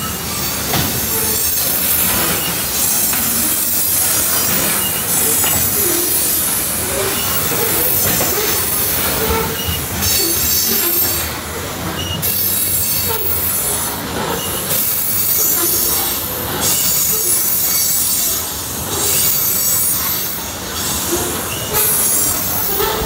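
Freight train of loaded tank cars rolling past at close range: a steady, loud run of steel wheels on the rails.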